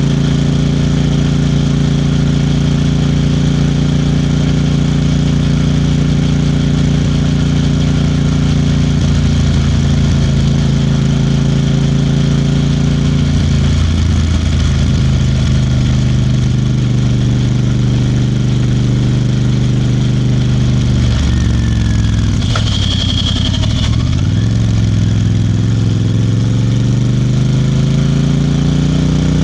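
Royal Enfield Bear 650's 648 cc parallel-twin engine and exhaust running under way. The engine note holds steady, drops in pitch about halfway through, sinks lower about two-thirds in as the bike slows, then climbs again as it accelerates near the end.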